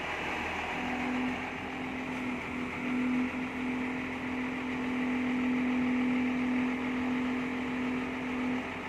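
Heavy diesel engine running steadily, with a held droning whine over it that dips briefly twice in the first three seconds.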